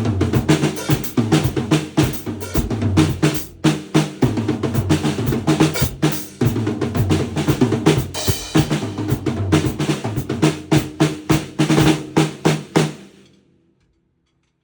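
Acoustic drum kit played by a beginner about 106 days into learning: a dense stream of snare and bass-drum hits with short rolls, breaking off briefly twice and then stopping suddenly near the end.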